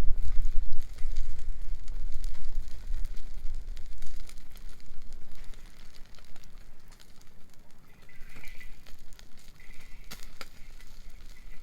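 Wood bonfire crackling and popping, with a few sharper pops about ten seconds in. A low rumble sits under the first few seconds.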